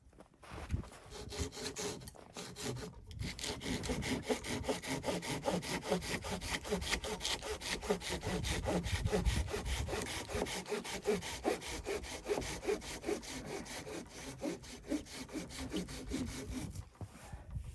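Hand saw cutting through wood in quick, regular back-and-forth strokes, which stop about a second before the end.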